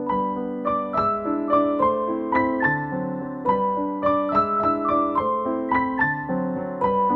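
Background music played on an electric piano: a melody of quick struck notes, several a second, over held lower chords.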